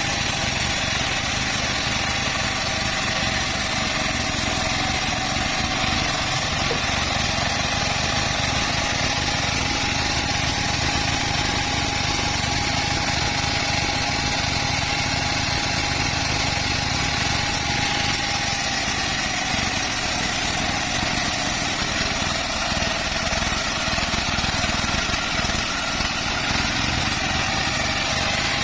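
Two-stroke chainsaw running steadily at high revs with an even, unbroken note, ripping lengthwise through a teak log.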